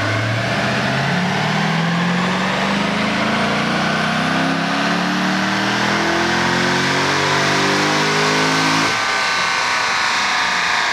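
Stock V8 sports car making a wide-open-throttle pull on a chassis dyno, revs climbing steadily in one gear for about nine seconds. Near the end the throttle closes and the engine coasts down with a high whine still sounding.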